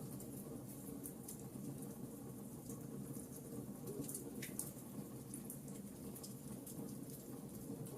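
Burning wood logs crackling: irregular sharp pops and snaps over a steady low rush of the fire.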